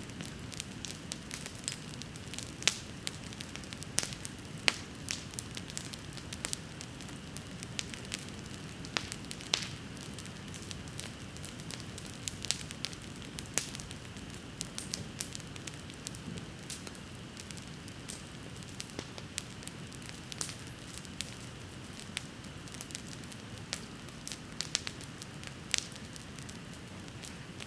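Wood bonfire burning, crackling with frequent sharp, irregular pops and snaps over a steady low noise of the flames.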